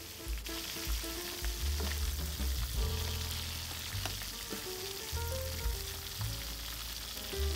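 Green plantain slices frying in hot vegetable oil with a steady sizzle, stirred now and then with a slotted spoon in the pan. Background music with a melody and bass plays along.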